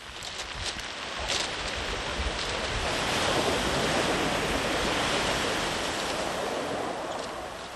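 Sea waves breaking and washing up a sandy beach: one long surge of surf that builds over the first few seconds, is loudest about halfway through, and slowly fades.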